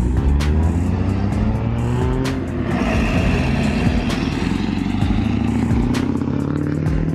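A motor vehicle's engine revving as it drives off, its pitch falling during the first couple of seconds and then climbing again toward the end.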